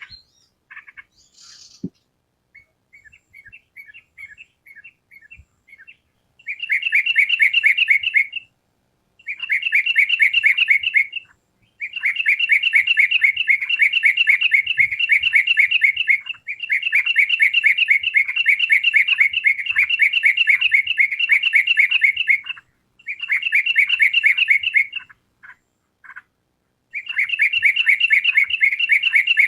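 Trucukan (yellow-vented bulbul) singing. A few sparse, softer notes come first, then from about six seconds in loud bouts of rapid repeated chattering notes, each bout a few seconds long with short pauses between.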